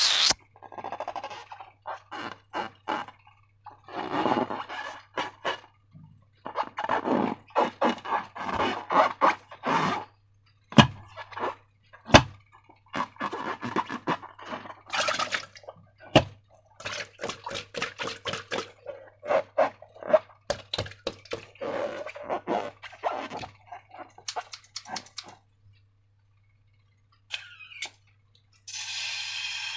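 Slime being squished and worked by hand, with irregular sticky clicks, pops and squelches over a steady low hum. There is a short hissing stretch near the end.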